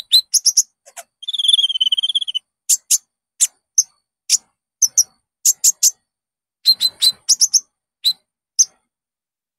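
Konin songbird calling: a string of short, sharp, high chirps, broken by one fast trilled note about a second long near the start. The chirps stop about a second before the end. This is the recorded konin song played as a lure to set a caged konin singing.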